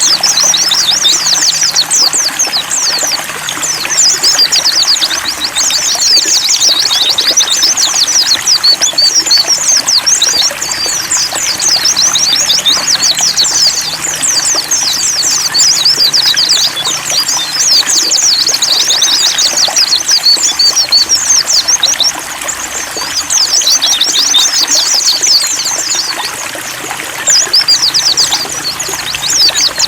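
Several white-eyes (pleci) twittering in fast, high, continuous chirping runs, over water trickling steadily. The chirping eases off briefly a couple of times near the end.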